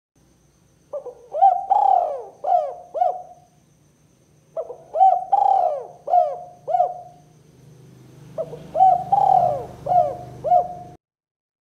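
Spotted dove (tekukur) cooing in three phrases of about five coos each, a few seconds apart, over a faint low hum.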